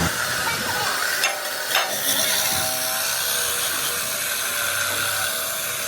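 Steady mechanical workshop noise, a high hiss of machinery, with two sharp knocks between one and two seconds in.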